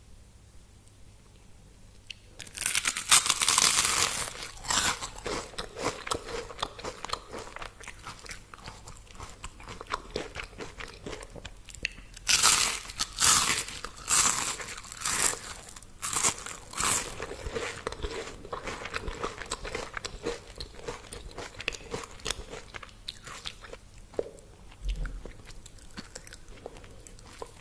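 A person biting into crisp fried food, with loud crunches about two and a half seconds in and a run of crunchy bites around the middle, then chewing.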